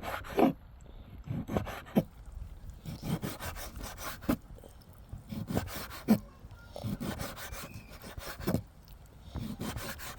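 Repeated rough scraping or rubbing strokes, roughly one a second and somewhat uneven.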